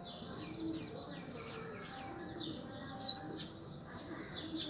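Birds chirping repeatedly, with two louder chirps about a second and a half and three seconds in.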